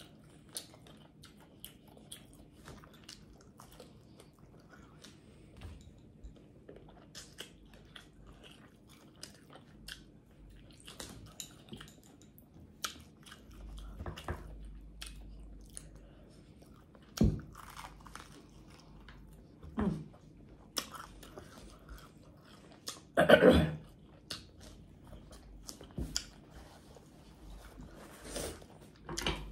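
Close-miked eating: a person biting and chewing crispy mustard-fried pork chop, with irregular crunches and mouth smacks. There are a few louder bites in the second half.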